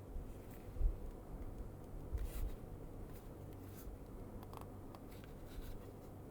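Sigma 17-40mm f/1.8 Art lens being handled, its ring turned, giving soft scattered clicks and light rubbing, with a couple of low knocks about one second and two and a half seconds in.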